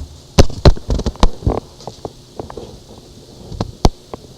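Microwave oven running with a faint steady hum, under about six sharp knocks and taps of things being handled, in two clusters early and late.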